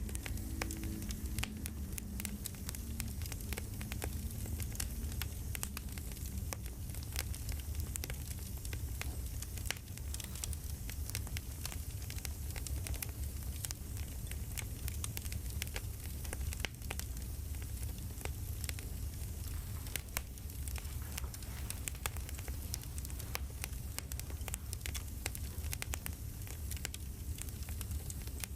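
Crackling campfire, with irregular pops and snaps over a steady low rumble of burning wood.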